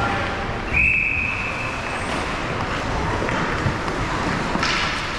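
Referee's whistle blown once, a single steady high note starting sharply under a second in and lasting about a second, over steady background noise.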